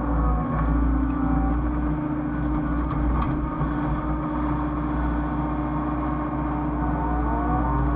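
Hyundai excavator's diesel engine running steadily under load, with a hydraulic whine that slides up and down in pitch near the start and again near the end as the machine works.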